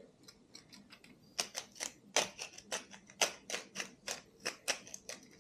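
Spalted maple peppermill being twisted to grind peppercorns: a run of sharp clicks, about three a second, faint at first and louder from about a second and a half in.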